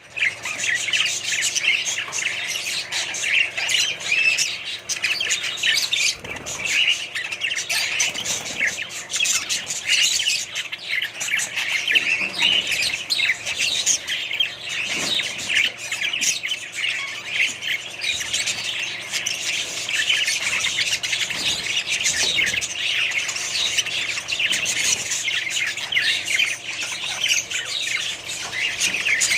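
A flock of small birds chirping and squawking over one another in a dense, unbroken chatter.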